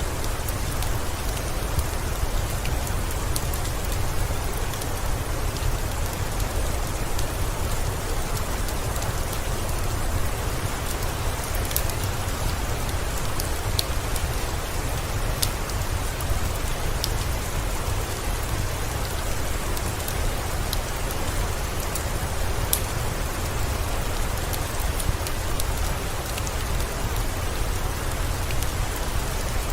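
Steady rainfall with a low rumble underneath and a few faint sharp crackles scattered through, from the fireplace in a rain-and-fireplace ambience.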